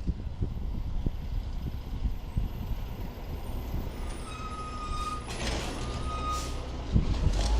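Garbage truck engine running with a steady low rumble. Late on, its reversing alarm beeps twice and a hiss of air rises, followed by a thump near the end.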